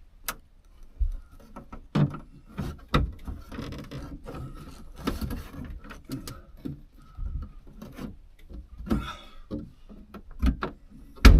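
Irregular knocks, clicks and rubbing of the headliner and plastic trim being pried and worked loose in a truck cab, with a sharp loud knock near the end.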